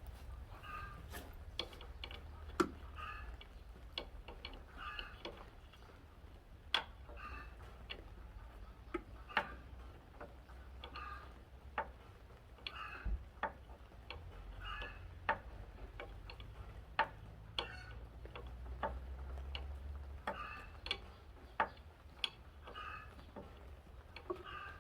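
Irregular sharp clicks and taps, as of hand tools and small metal parts being handled during engine reassembly, over a low rumble, with a faint short chirp repeating about once a second.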